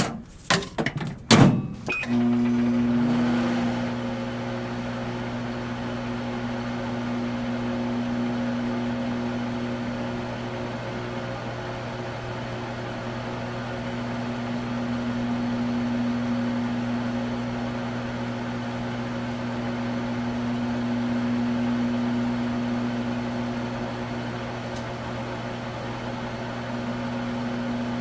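A few knocks and a short beep in the first two seconds, then a microwave oven starts and runs with a steady hum.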